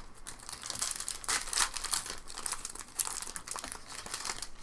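Foil trading-card pack wrappers crinkling and tearing as packs are opened by hand: a quick, irregular run of rustles and crackles.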